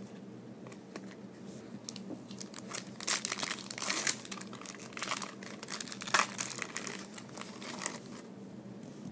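Foil trading-card pack wrapper crinkling and tearing in the hands, in irregular bursts of crackles that are loudest in the middle of the stretch.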